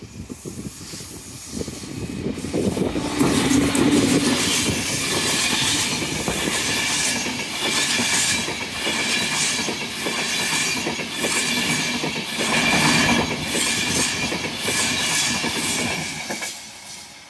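LNER InterCity 225 express (Mark 4 coaches and driving van trailer) passing at speed over a level crossing: a rushing roar with rhythmic wheel clickety-clack over the crossing, with a steady high-pitched ring under it. It builds about two seconds in and fades near the end.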